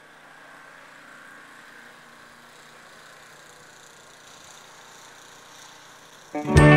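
A faint, steady hum like an idling engine, then loud guitar-backed music starting suddenly near the end.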